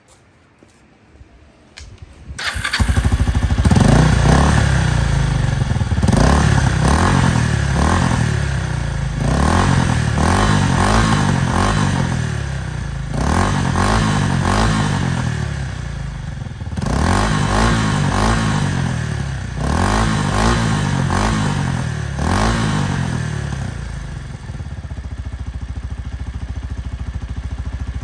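Kawasaki Estrella RS's single-cylinder four-stroke engine being started: it catches about two seconds in, is revved up and down repeatedly with throttle blips, then settles into a steady idle near the end.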